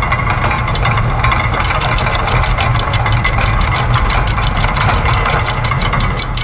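Layered factory machine sounds: a steady low mechanical hum under a fast, even train of sharp clicks, about seven a second. The low hum drops out near the end.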